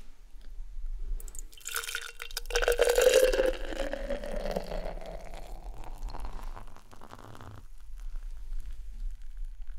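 Beer poured into a glass, starting about a second in, its pitch shifting as the glass fills, and stopping abruptly near the end. The pour is followed by the faint fizz of the carbonated beer.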